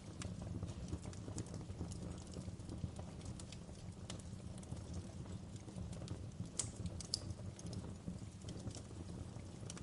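Log fire crackling in a fireplace: a steady low rumble of the flames under many sharp snaps and pops, with two louder pops about two-thirds of the way through.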